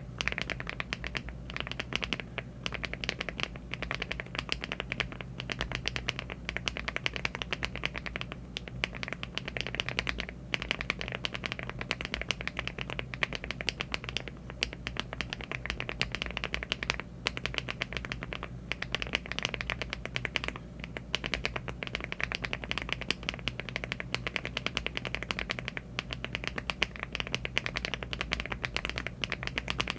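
Fast continuous typing on a LEOBOG Hi75 aluminium mechanical keyboard fitted with HMX Windlight switches (50 g) and Cherry-profile keycaps: a dense, unbroken stream of key clacks over a faint steady low hum.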